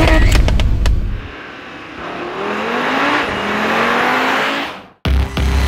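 Audi RS3's turbocharged 2.5-litre five-cylinder revving and accelerating, its note rising in pitch with an upshift partway through. A deep rumble with rising revs and sharp clicks comes in the first second. The sound cuts off abruptly near the end and music with a heavy beat starts.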